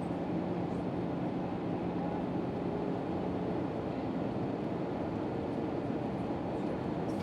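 Steady engine and airflow noise inside the cabin of an Airbus A319-112 with CFM56 engines, heard from a forward window seat. A low hum under the noise fades out about halfway through.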